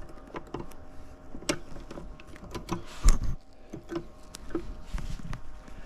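Scattered light metallic clicks and knocks of tools and transmission parts being handled on the bench, with one louder thump about three seconds in.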